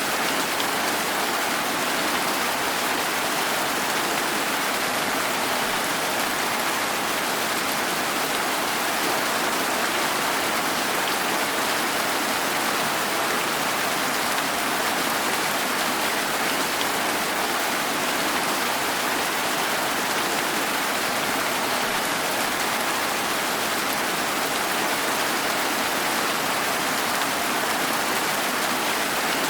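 Steady rain, an even hiss of falling drops.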